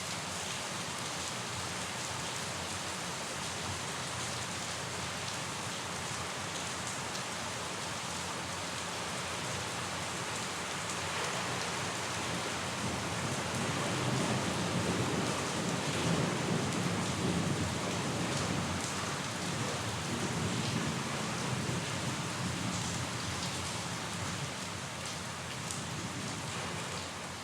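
Steady rainfall hissing on a surface. About halfway through, a long low rumble of thunder swells and then fades out near the end.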